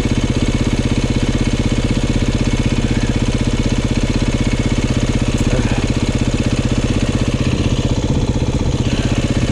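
Dirt bike engine running steadily at low revs, with an even, fast pulsing beat and no revving.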